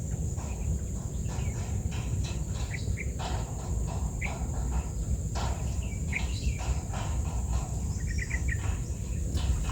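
Outdoor summer ambience: a steady high-pitched insect drone, with short bird chirps now and then, including a quick run of four chirps about eight seconds in, over a constant low rumble.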